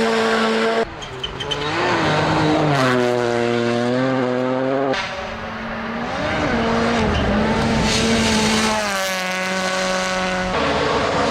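Rally car engines running hard at high revs, the pitch rising and falling with throttle and gear changes. The sound jumps abruptly to a different engine note three times.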